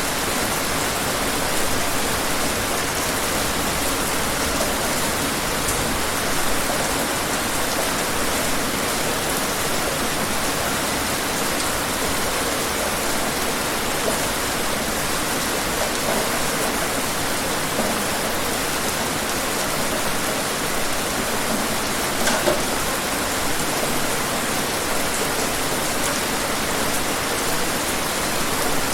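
Steady rain, an even hiss with scattered drops ticking on a surface and one slightly louder drop about three-quarters of the way through.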